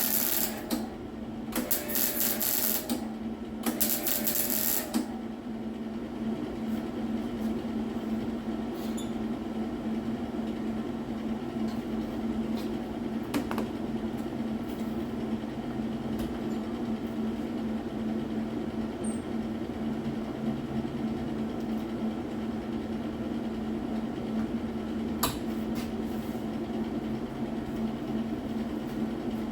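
Three short bursts of electric welding crackle, each about a second long, in the first five seconds while the quarter panel is tacked on. After that a steady mechanical hum runs on, with a few scattered clicks.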